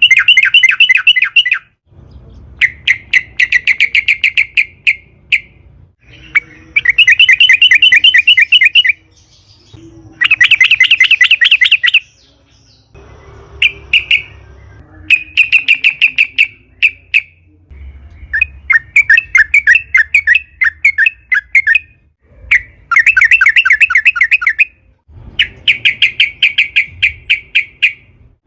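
Yellow-vented bulbul singing loud, bubbling phrases of rapidly repeated notes, each phrase a second or three long, with short pauses between them.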